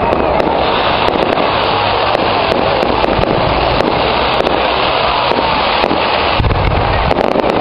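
Fireworks going off in a dense, loud barrage of rapid crackles and pops over a low rumble of bangs.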